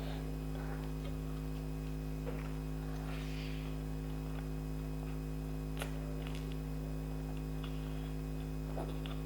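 Steady electrical hum, with a few faint clicks and light taps over it, the clearest about six seconds in.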